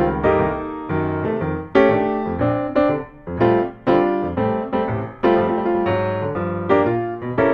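Instrumental background music led by piano, with chords and notes struck one after another.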